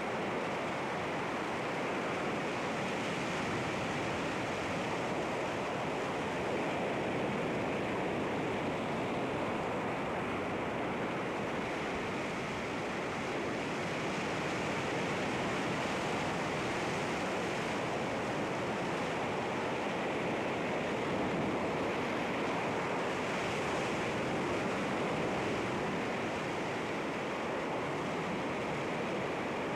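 Sea waves breaking on rocks: a steady rush of surf with gentle swells as waves come in.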